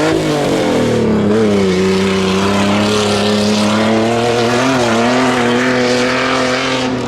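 Off-road competition truck's engine running hard at high revs. The pitch drops about a second in, then holds fairly level with small rises and dips as the driver works the throttle.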